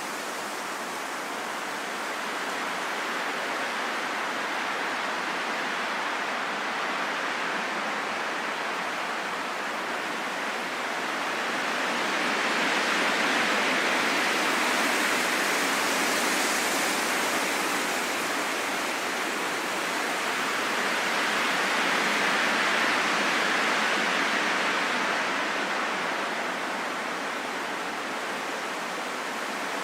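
Steady rain falling in a forest, an even hiss without distinct drops, growing louder twice for a few seconds before easing back.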